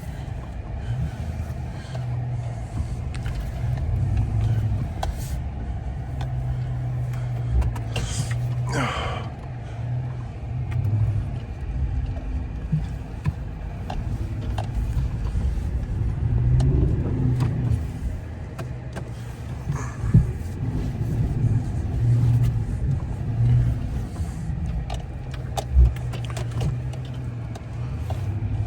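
Truck engine running in four-wheel drive while the truck works its way through deep snow, its low hum swelling and easing as the throttle changes. A brief higher noise about eight seconds in and a few sharp knocks.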